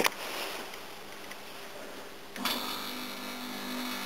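Toshiba air conditioner's compressor starting up about two and a half seconds in and running with a steady hum, while the unit's fan stays still.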